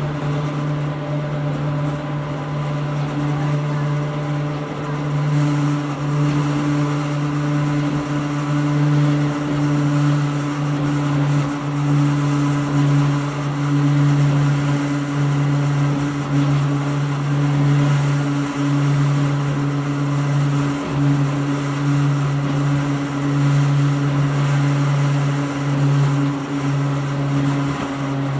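Hakone Tozan Railway Moha 1 electric railcar under way, heard from inside the car: its nose-suspended traction motors and gearing give a steady low whine over the running noise, swelling and easing slightly.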